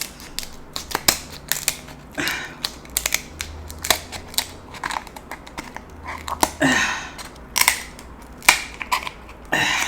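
Steamed king crab shell being cracked and pried open by hand to get at the meat: a run of sharp cracks and clicks, with a few longer crunching scrapes.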